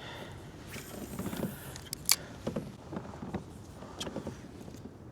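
Fishing tackle being handled while casting and retrieving: a short hiss, then a sharp click about two seconds in and a few fainter clicks.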